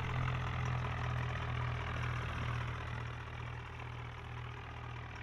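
Swaraj 744 tractor's diesel engine running steadily at a constant speed.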